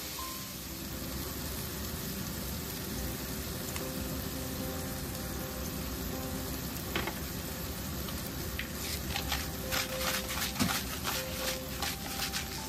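Tomato wedges and garlic sizzling in hot oil in a nonstick pan, a steady hiss. In the last few seconds comes a run of sharp crackles and clicks.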